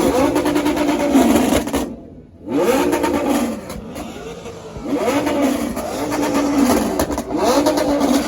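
A car engine revved repeatedly: the pitch climbs, holds high, then falls, over and over. About two seconds in the sound cuts out almost completely for a moment.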